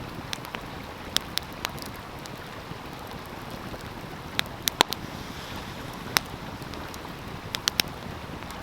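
Wood fire crackling with sharp, irregular pops, in small clusters, loudest around the middle, over the steady rushing of a stream.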